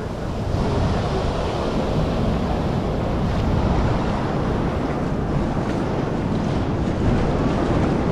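Ocean surf washing on the beach, a steady rush with wind buffeting the microphone.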